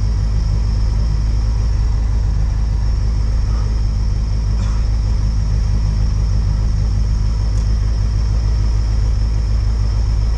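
Lada 2107 rally car's engine idling steadily, heard from inside the cabin.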